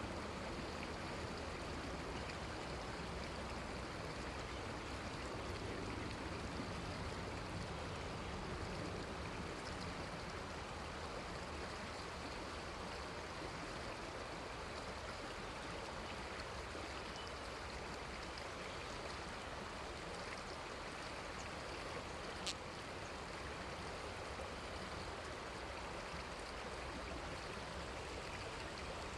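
Running river water flowing steadily. A single sharp click is heard about three-quarters of the way through.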